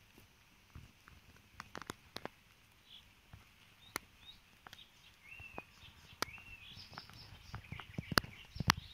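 Songbirds chirping in short curved notes, starting about three seconds in and growing busier. Scattered sharp clicks and rustles close to the microphone sound over them and are the loudest sounds, most of them near the end.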